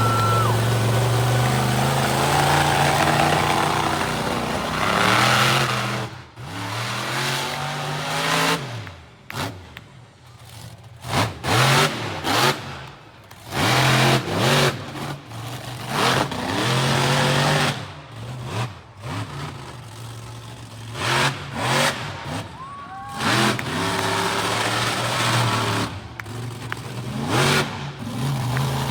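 Monster truck engine revving hard, held high for several seconds, then cut and blipped in short bursts with the pitch rising and falling.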